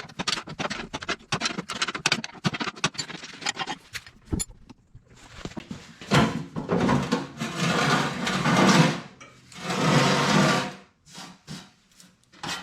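Ratchet wrench clicking in quick strokes as a blade nut is worked loose, followed by two longer, louder mechanical bursts about six and ten seconds in.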